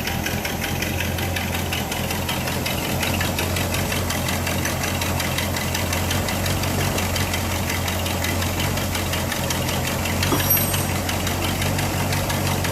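1959 Cadillac DeVille's 6.4-litre V8 idling steadily with a fast, even ticking, while its cooling system is burped after a coolant refill. The owner notes a small exhaust leak on this engine. A short, sharp sound comes about ten seconds in.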